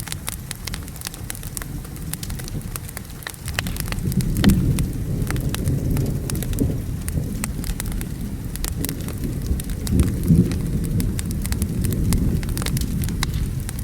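Wood fire crackling with many sharp pops, over steady rain and low rolling thunder that swells about four seconds in and again around ten seconds.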